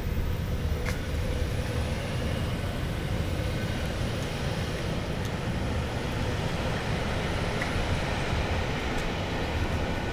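Steady low rumble of a train at a railway station, with a few faint clicks.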